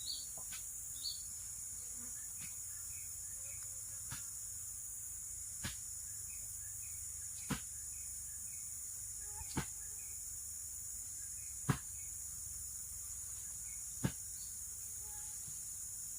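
A steady, high-pitched chorus of insects such as crickets, with faint short chirps. Six sharp knocks about two seconds apart cut through it, growing louder towards the end.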